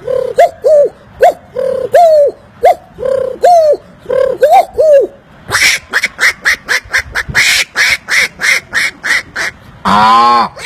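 A man imitating bird calls with his mouth. First comes a quick string of short calls that rise and fall in pitch. About halfway through comes a fast run of high chirps, about four a second, and near the end a long, strained call begins.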